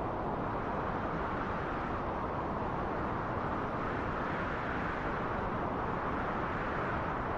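Wind blowing steadily: a continuous rushing noise with gentle swells.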